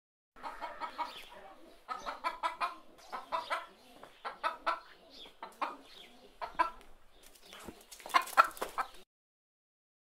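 Mother hen clucking in repeated bursts of quick, short clucks, about one burst a second, the loudest cluster near the end before the sound cuts off abruptly.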